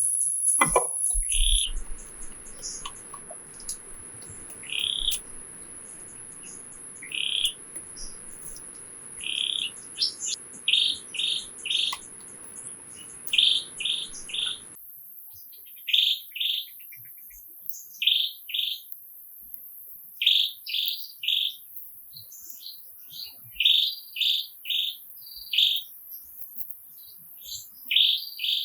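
A bird calling over and over in short chirps, singly or in quick runs of two or three, every second or two, over a faint steady high-pitched whine.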